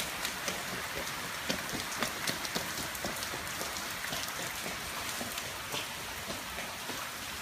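Heavy rain pouring down steadily, a dense hiss with the close patter of individual drops hitting surfaces.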